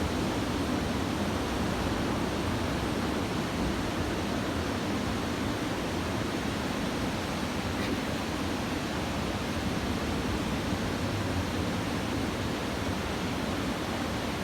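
Steady rushing noise of surf from a typhoon swell breaking along the beach, with no distinct pauses between waves.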